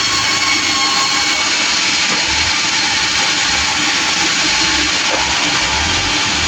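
Sawmill machinery running, a loud, steady mechanical noise that holds level throughout.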